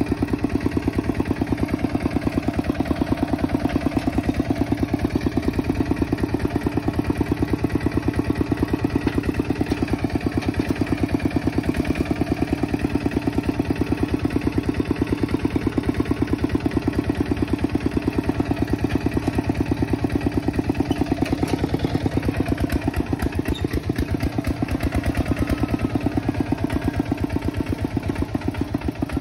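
Kubota tractor's diesel engine running at a steady speed, its firing pulses fast and even throughout.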